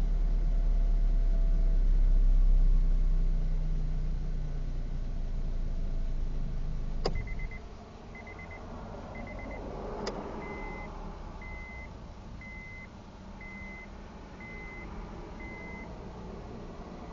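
2004 Acura RSX engine idling, then switched off with a click about seven seconds in. After that the car's warning chime beeps near the end: a few short stuttered beeps, then slower single beeps about once a second.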